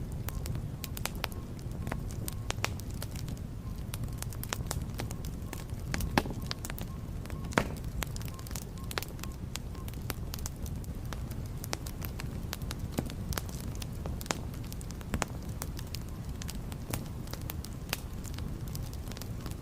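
Wood fire burning in a fireplace: a steady low rumble of flames with frequent, irregular sharp crackles and pops, one louder pop about seven and a half seconds in.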